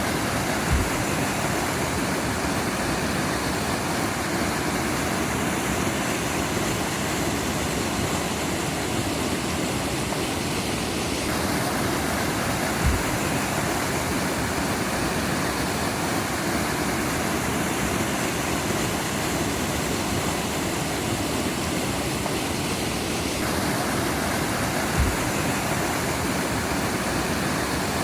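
Mountain stream flowing: a steady rush of running water. A brief low thump comes three times, about twelve seconds apart.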